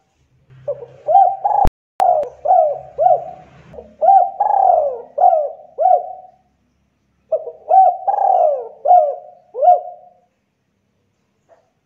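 Spotted dove (tekukur) cooing: two rhythmic phrases of repeated rolling coos, the first running about five seconds and the second about three, with a short pause between them. A single sharp click cuts in early in the first phrase.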